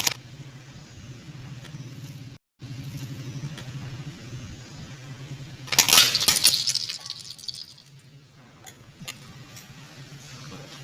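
Motorcycle engine running at low speed, with a loud crackling crunch about six seconds in as its tyre rolls over and crushes an object. The sound cuts out for a moment about two seconds in.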